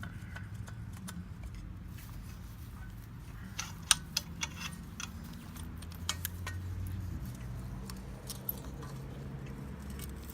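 Scattered small metallic clicks and scrapes of hand tools working a rivet out of a machete's handle, the sharpest click about four seconds in. A steady low hum runs underneath.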